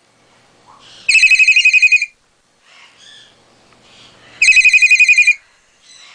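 Trilling telephone-style ring: two identical warbling bursts of about a second each, roughly three seconds apart, in a steady repeating pattern.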